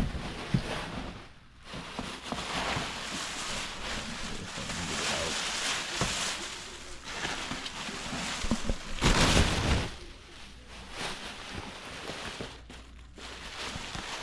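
Crinkling and rustling of packaging as a replacement motorcycle fairing panel is unwrapped, in irregular surges with the loudest about nine seconds in.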